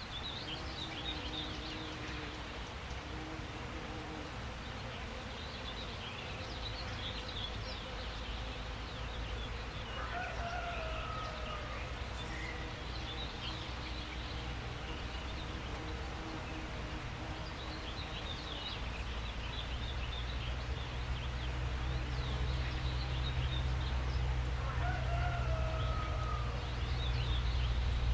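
A chorus of wild birds chirping and twittering in scattered bursts. Twice, about ten seconds in and again near the end, a bird gives a short falling whistled call. Underneath runs a steady low rumble that grows louder in the second half.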